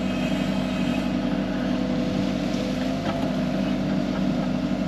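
Excavator's diesel engine running steadily, holding one even pitch.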